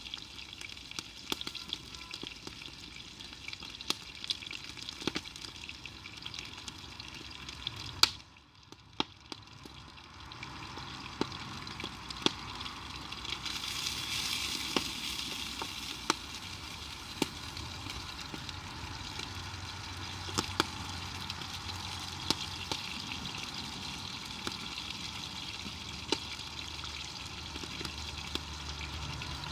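Food sizzling and frying in a pan over a campfire: a steady hiss scattered with sharp pops and crackles. A loud pop comes about eight seconds in, the hiss drops away briefly, then builds back up stronger.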